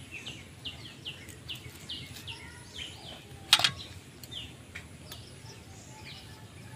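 A bird calling over and over in short, falling chirps, two or three a second. About three and a half seconds in there is a single sharp knock, the loudest sound.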